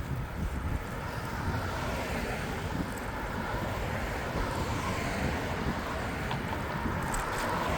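Steady wind rumble on the microphone of a moving bicycle, with city traffic noise behind it.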